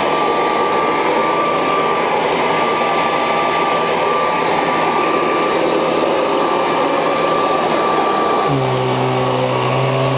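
Hoover Professional Series CH50020 upright vacuum cleaner running steadily, a high whine over its motor noise. About eight and a half seconds in, the note changes: the whine stops and a lower, steady hum takes over.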